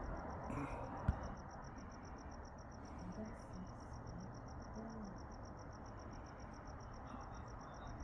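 A cricket chirping in a steady, fast-pulsing trill, about seven or eight pulses a second, over a faint background hiss.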